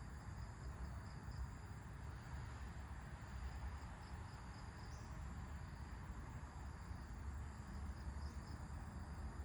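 Insect chorus chirring steadily and high-pitched, over a low rumble of wind.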